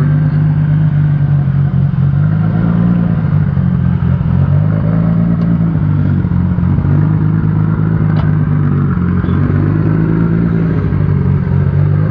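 A car engine running steadily, a low drone whose pitch rises and falls slightly throughout.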